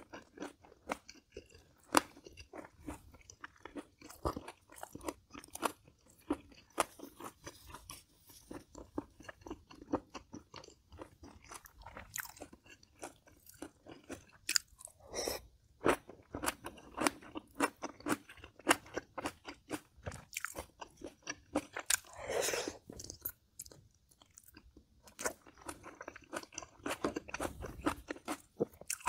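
Close-miked chewing and crunching of braised pork ribs and crisp, lightly cooked kimchi: a quick, uneven run of wet crunches and mouth clicks, with a longer noisy stretch about three-quarters through.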